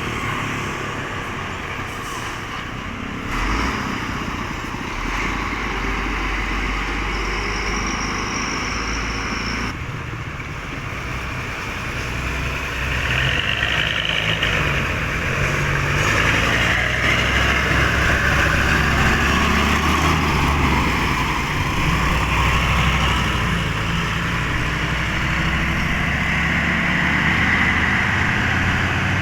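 Heavy cargo trucks passing on a road, their diesel engines running low under steady tyre and traffic noise, growing louder about twelve seconds in as a truck comes close.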